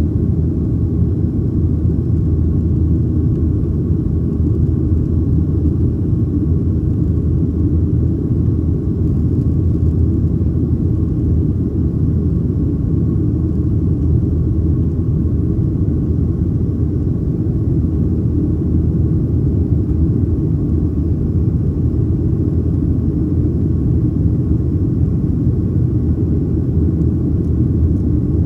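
Steady low rumble inside the cabin of a Boeing 737-800 under way, engine and airflow noise at an even level with no change in pitch.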